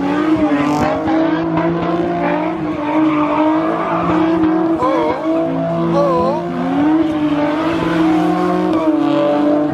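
A car's tires squealing without a break under wheelspin, with its engine running hard; the squeal wavers in pitch a few times.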